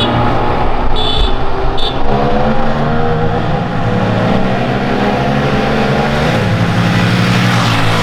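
Engine running hard under acceleration, its pitch dropping at a gear change about six seconds in. Three short, high-pitched beeps come in the first two seconds.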